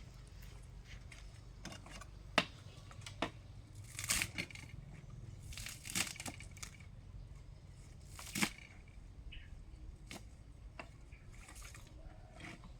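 Food-preparation handling noises: scattered sharp clicks and knocks with short bouts of rustling and tearing, over a low steady background hum.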